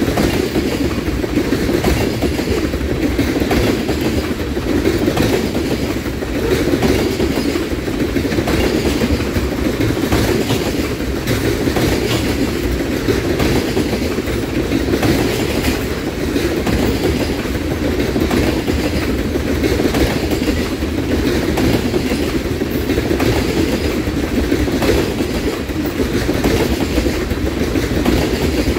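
Loaded ethanol tank cars of a freight train rolling past close by: a steady rumble of steel wheels on rail, with the clickety-clack of wheels over the rail joints.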